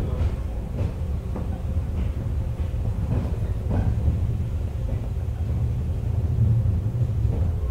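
Onboard running sound of a JR 101-series electric train: a steady low rumble from the car with occasional short clicks.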